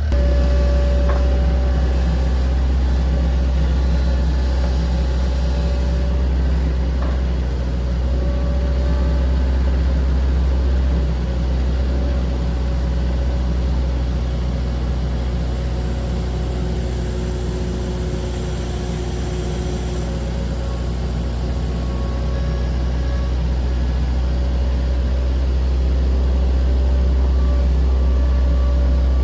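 Skid steer's engine running steadily at a constant speed, with a heavy low rumble.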